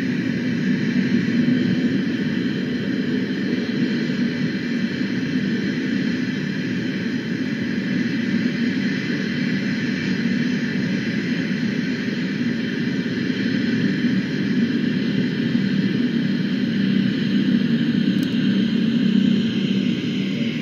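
Steady, unchanging engine-like drone with a hiss over it.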